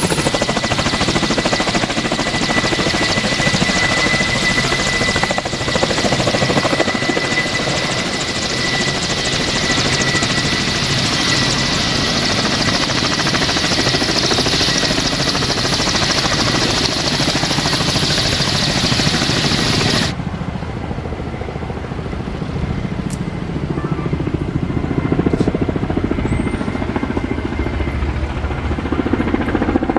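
Kamov Ka-32 helicopter running, its twin turboshaft engines and coaxial rotors making a loud, steady rush with a high whine. About two-thirds of the way in, the high whine and hiss stop abruptly, leaving a lower rumble of the engines and rotors that swells again near the end.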